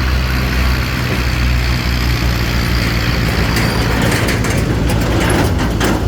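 Diesel tractor engine running steadily, with a run of short knocks and rattles in the last two seconds.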